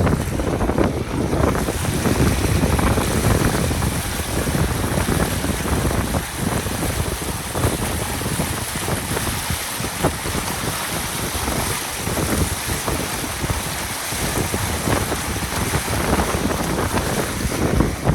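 Wind buffeting the microphone aboard a sailboat under way, a gusty rumble that rises and falls, with the wash of water along the hull beneath it.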